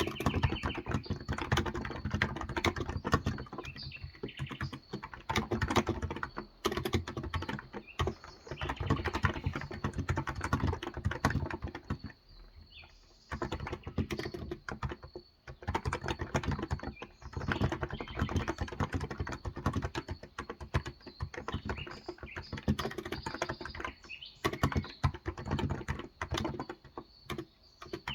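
Continuous typing on a Cox Endeavor electrostatic capacitive (non-contact) tenkeyless keyboard with 35 g switches: rapid key clicks in long runs broken by brief pauses, the longest about halfway through.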